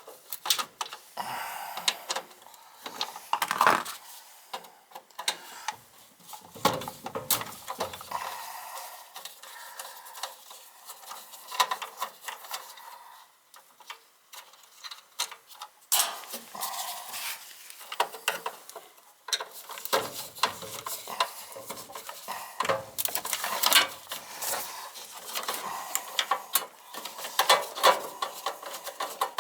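Irregular small clicks, taps and light rattles of hand work on furnace wiring, with wires, connectors and small metal parts being handled.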